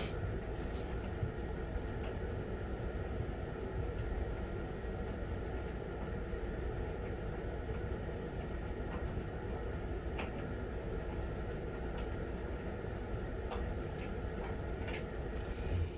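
Miele Novotronic W921 front-loading washing machine running early in its Easy Care 40°C wash: a steady motor hum and drum rumble with a few faint clicks.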